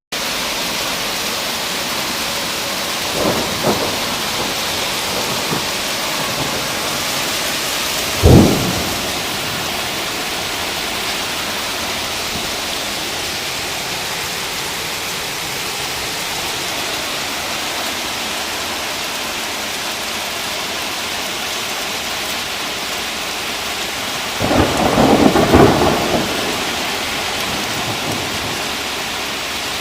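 Heavy rain falling steadily in a thunderstorm, with a sharp, loud thunderclap about eight seconds in, a longer rumble of thunder near the end, and fainter cracks around three to four seconds in.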